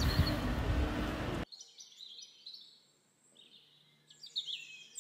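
Small birds chirping in high, quick notes over outdoor background noise with a steady low hum. About a second and a half in, the background noise cuts out suddenly, leaving only the bird chirps.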